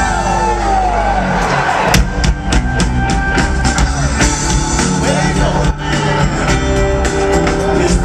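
Live rock band playing at full volume, with drum kit and heavy bass under sustained guitar and keyboard lines, in an instrumental stretch after a sung verse.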